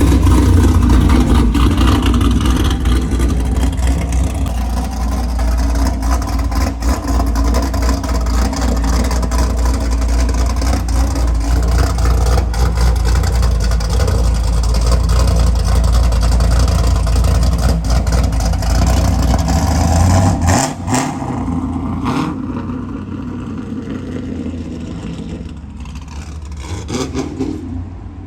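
Car engine running loud with a deep rumble and some revving. It cuts back sharply about twenty seconds in and gives way to quieter engine noise.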